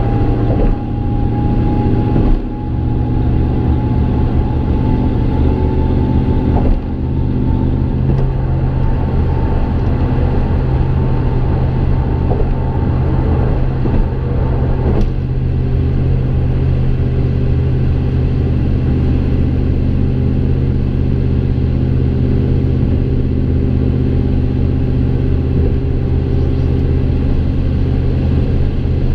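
Exhaust of a 2015 Chevy Silverado's 5.3-litre V8, running through long-tube headers and a Gibson M.W.A muffler with no resonator, heard inside the cab while cruising at a steady speed: a steady low drone. A faint high whine runs with it and cuts out about halfway through.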